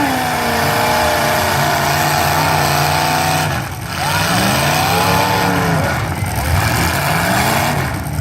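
Derby car engines revving up and down over a steady mechanical din, easing off briefly about three and a half seconds in.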